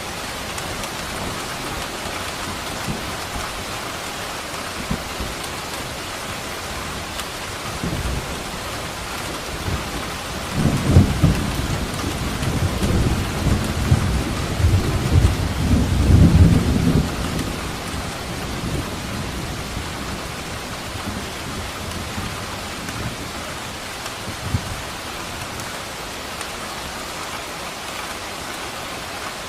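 Steady rain falling, with a long low roll of thunder that builds about a third of the way in, peaks twice and rumbles away after about seven seconds.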